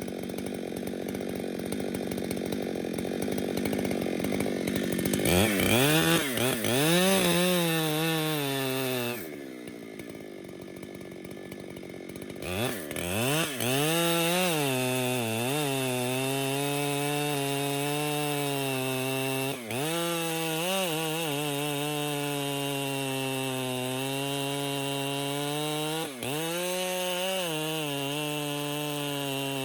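Two-stroke chainsaw revving up and down, dropping away for a few seconds, then revving back up and running at a steady high speed, with two brief dips, as it rips a log lengthwise into boards.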